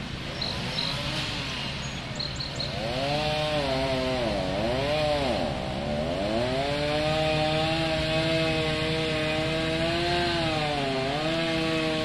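A chainsaw running, its pitch revving up and dropping several times before holding fairly steady, with short dips near the end. A steady low motor hum runs underneath.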